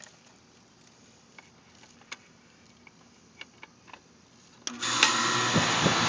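Faint scattered ticks, then near the end a Coleman air conditioner's outdoor condensing unit starts up suddenly, its compressor and condenser fan running with a steady hum under a broad rush of fan noise. It runs a little bit noisy.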